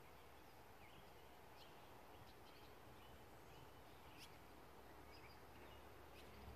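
Near silence: faint outdoor ambience with scattered short, high bird chirps from the surrounding trees.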